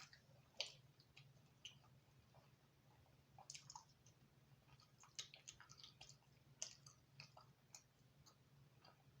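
Someone quietly chewing thin, crispy-crust pizza: soft irregular mouth clicks and small crunches, the sharpest about half a second in and again around five and six and a half seconds in, over a faint steady low hum.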